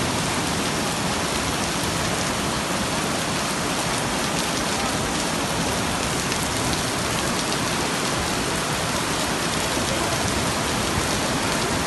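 Torrential rain falling hard: a steady, dense hiss with no breaks.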